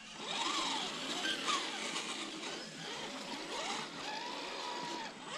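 Scale RC rock crawler's electric motor and gear drivetrain whining, the pitch rising and falling several times as the throttle is worked.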